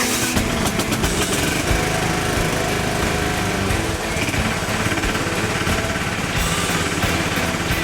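Kawasaki FC420V single-cylinder engine in a John Deere 240 lawn tractor running steadily just after a cold start.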